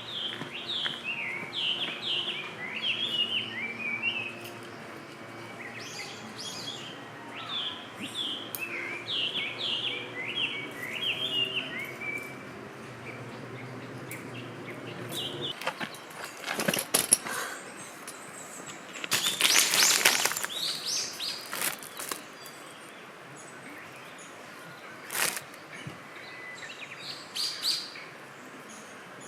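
Birds chirping and singing in quick short phrases through the first half, over a faint steady hum that stops about halfway. After that come a few loud bursts of rustling or clattering noise.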